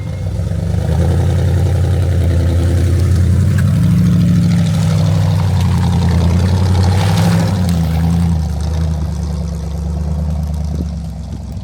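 Off-road 4x4's engine working under load as it crawls over terrain. The engine rises about a second in, holds steady, and eases off near the end.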